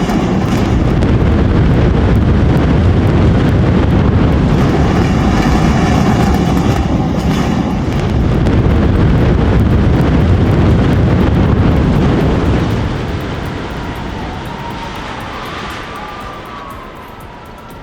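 Loud, deep rumbling roar of a building coming down in a demolition, holding steady for about twelve seconds, then fading away over the last few seconds.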